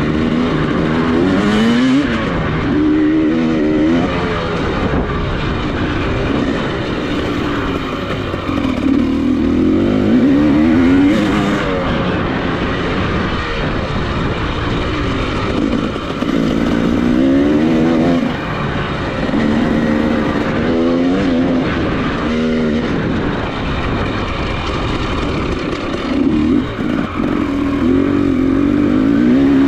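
Off-road motorcycle engine being ridden hard, revving up and dropping back again and again as it accelerates and shifts, with about five climbing surges.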